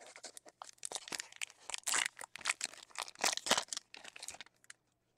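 Foil trading card pack wrapper being torn open and crinkled, a burst of crackling that dies away about four and a half seconds in.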